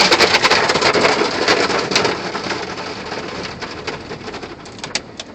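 Car wash water spray and brushes working over the car body: a dense pattering and slapping of water and brush strips on the panels. It fades gradually over the last couple of seconds.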